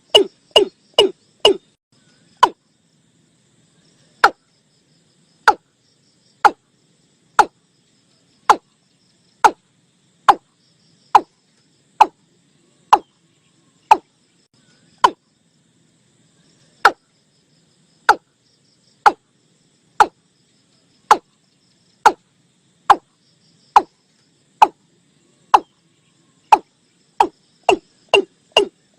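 Watercock calling: a quick run of short hollow notes, then single notes at about one a second for most of the stretch, speeding back into a quick run near the end. A recording of the call used as a lure for trapping the bird.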